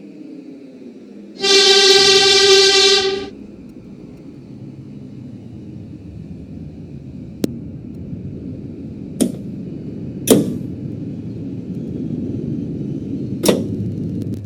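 Subway garbage train's horn sounding one steady blast of about two seconds, then the train running with a steady rumble broken by four sharp clacks.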